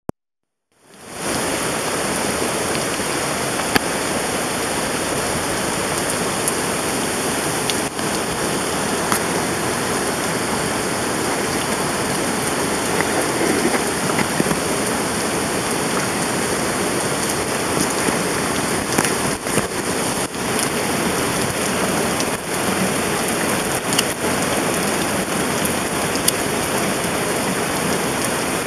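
Steady rain falling, with scattered sharp drops striking close by; it fades in over the first second.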